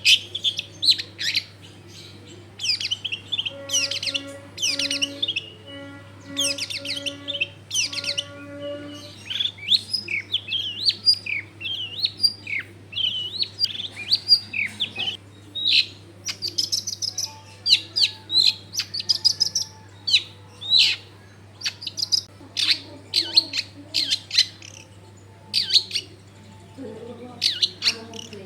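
Long-tailed shrike singing continuously: a busy string of sharp, varied chirps, trills and rapid notes with hardly a pause.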